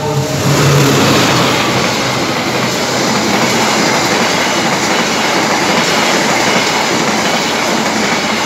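KAI passenger train hauled by a diesel locomotive, passing close by. Its wheels run over the rails in a loud, steady rumble as the coaches go past.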